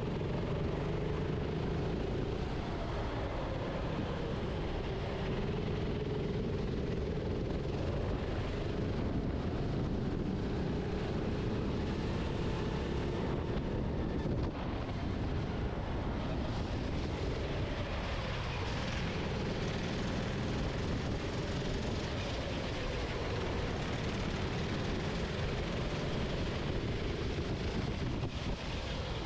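Onboard sound of a kart's engine running on track, its pitch rising and falling with the throttle, over a steady rush of wind on the microphone.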